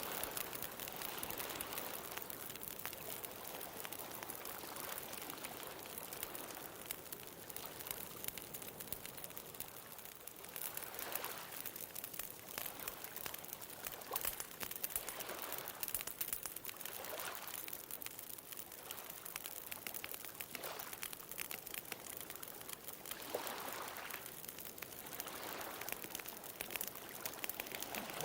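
Bonfire crackling with many small sharp pops, over ocean waves washing in and drawing back in soft swells every few seconds.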